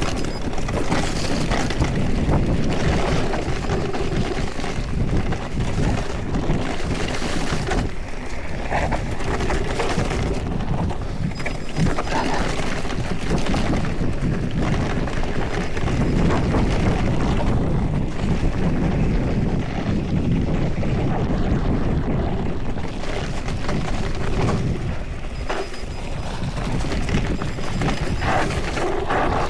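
Mountain bike descending fast on a dirt trail: wind buffeting the microphone over a continuous rumble of tyres on rough ground, rising and falling with the terrain.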